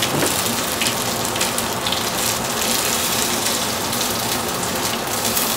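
Fishcakes sizzling in a pan of shallow hot oil, a steady hiss with fine crackles, as they are turned over with a spatula.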